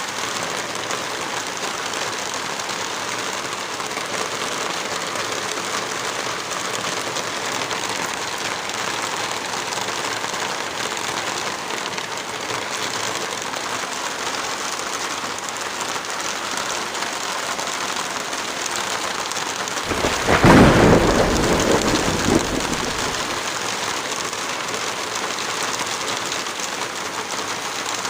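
Heavy rain falling steadily. About twenty seconds in, a low rumble swells and fades over a few seconds, the loudest sound here.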